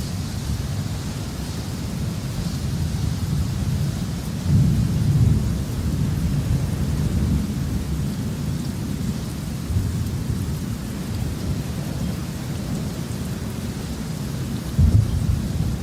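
Thunderstorm: steady rain with low rolling thunder. The thunder swells louder about four to five seconds in and again near the end.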